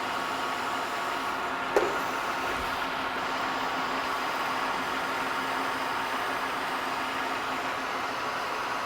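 A machine tool running steadily with an even hum, and one sharp click just under two seconds in.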